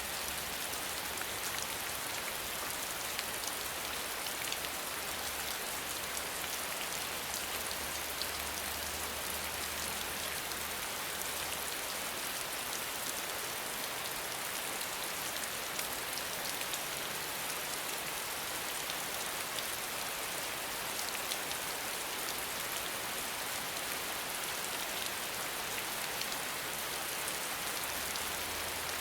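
Steady rain falling, a dense patter of drops on a surface with no pauses.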